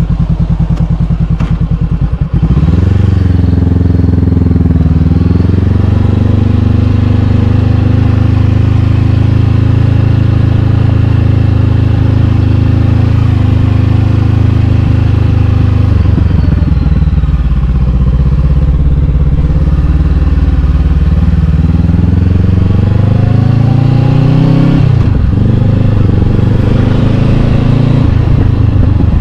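Honda CB500X parallel-twin engine through an Arrow Pro-Race exhaust, pulling under load. The revs climb over the first few seconds and hold steady for about ten seconds. They drop around halfway, climb again, dip sharply as if on a gear change about 25 seconds in, then rise once more.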